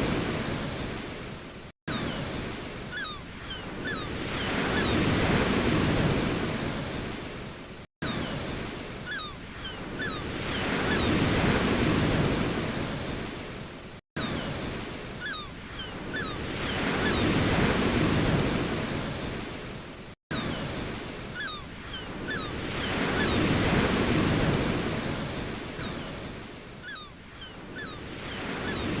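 Ocean waves washing in and drawing back, each surge swelling and fading about every six seconds. The sound cuts out for an instant four times.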